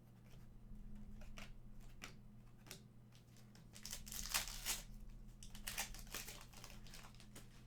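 Trading cards and their packaging being handled: short rustles and crinkles, with longer crinkling about four seconds in and again near six seconds, over a faint steady electrical hum.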